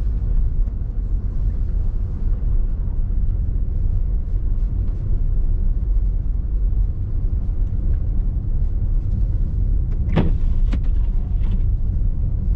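Car driving, a steady low rumble of engine and road noise, with a brief sharp knock about ten seconds in.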